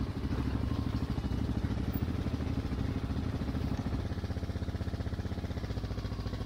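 Single-cylinder dual-sport motorcycle engine running steadily at low revs, with an even thumping pulse.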